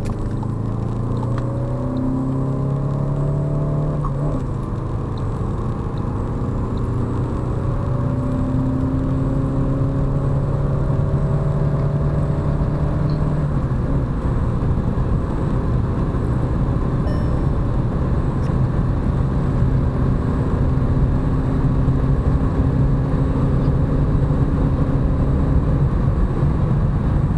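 Skoda Octavia RS 2.0-litre turbocharged four-cylinder engine under full-throttle acceleration, heard from inside the car. The engine note climbs through the gears and drops at upshifts near the start and about four seconds in. After that it rises slowly in a high gear under steady road and wind noise that grows a little louder.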